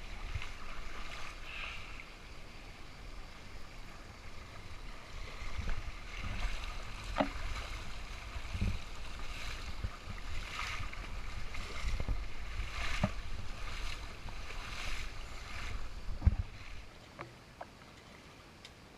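Creek water splashing and rushing, with uneven low rumbling on the camera microphone and scattered knocks. About 17 seconds in, the rumble and knocks stop, leaving only a faint steady flow of water.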